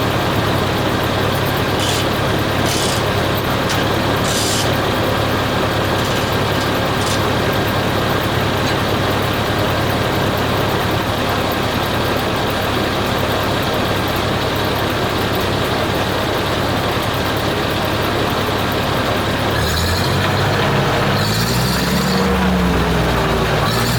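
A heavy engine running steadily. About twenty seconds in, its pitch rises and falls as it is revved.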